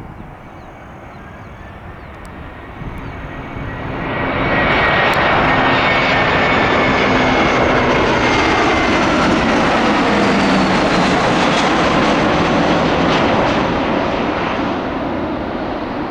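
Airbus A319 airliner's jet engines on approach, flying past: the engine noise swells to loud at about four seconds in, holds for around nine seconds with a sweeping, shifting rush, and eases off near the end.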